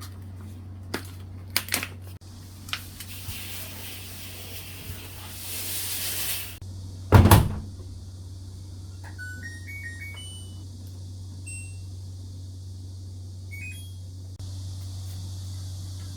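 Washing machine being handled for a cleaning cycle over a steady low hum: a few clicks, a rush of noise, then one loud thump of its door or lid shutting about seven seconds in. After that come control-panel beeps, short tones stepping up in pitch.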